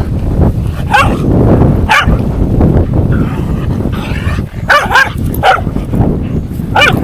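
Dog barking in short, sharp barks: single barks about a second and two seconds in, then a quick cluster around five seconds in. Heavy wind noise rumbles on the microphone throughout.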